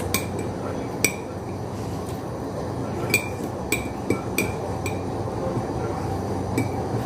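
Metal cutlery clinking against a plate about seven times, light and irregular, while eating.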